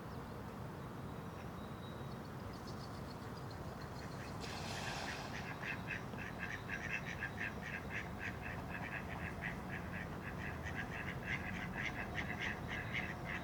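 About four seconds in, a brief rush of noise, then a continuous run of rapid, quack-like animal calls, several a second, that carries on to the end.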